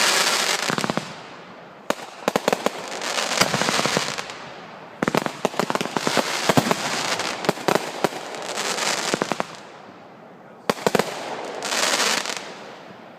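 Fireworks going off in volleys: clusters of sharp bangs, each followed by a second or two of dense crackling. New volleys come about two seconds in, about five seconds in and near the end.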